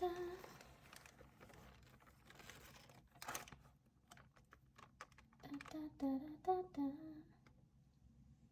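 A person humming a few short notes at the start and again about two-thirds of the way through, with scattered light clicks and taps, one sharper click about three seconds in.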